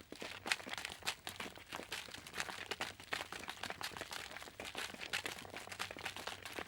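Footsteps crunching over a loose, crackly surface, a dense irregular crackle with louder crunches about every half second.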